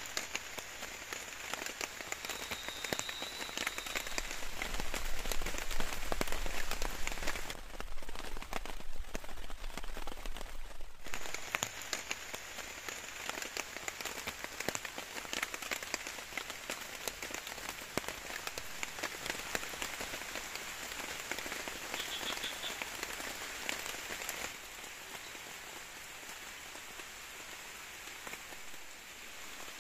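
Steady rain falling, a dense hiss full of small drop impacts. It grows louder about a quarter of the way through, changes abruptly a few times, and is somewhat quieter for the last few seconds.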